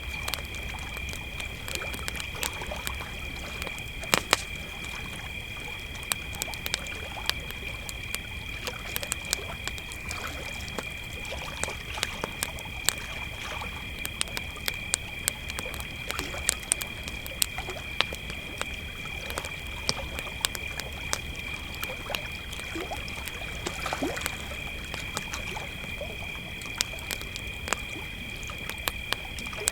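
Crickets trilling without pause, two steady trills at different pitches, over a campfire crackling with frequent sharp pops.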